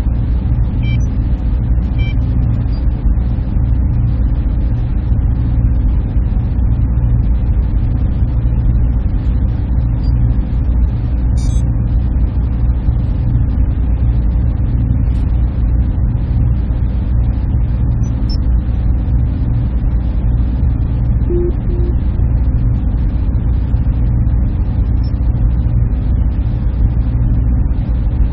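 Server room machinery running steadily: a constant low hum and whir of equipment and cooling fans that never changes.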